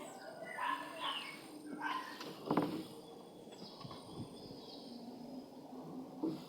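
Ultramarine grosbeak (azulão) singing short warbled phrases through the first two seconds, with a sharp knock about two and a half seconds in, the loudest sound here, and a few fainter notes later over a steady low hum.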